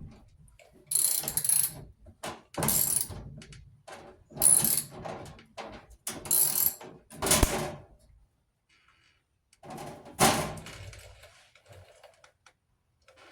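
Socket ratchet clicking as bolts on a dryer's panels are turned, in about six short bursts with pauses between, then a last burst near the end.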